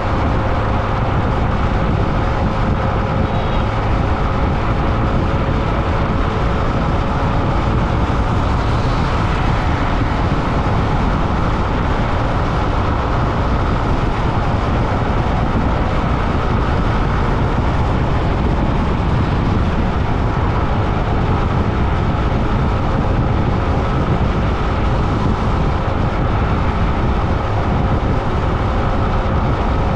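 Steady road noise heard while riding along a road: a continuous rumble and hiss with a faint steady hum, with no breaks or sudden events.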